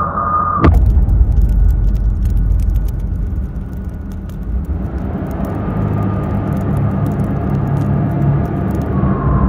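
A car engine running with a low rumble that comes in abruptly with a sharp click about a second in.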